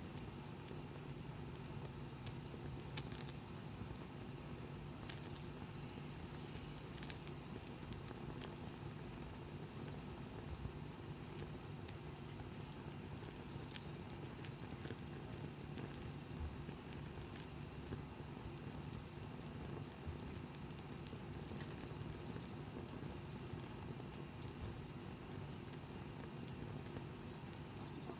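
Wood campfire crackling steadily, with scattered small pops. A high insect trill comes and goes in short spells every two to three seconds.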